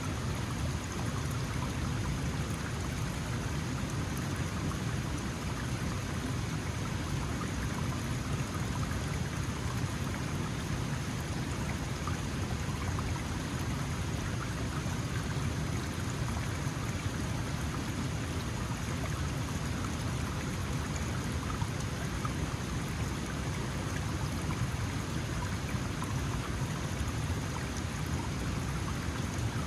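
Small mountain stream flowing steadily over rocks, a continuous rush of water with fine splashing and burbling.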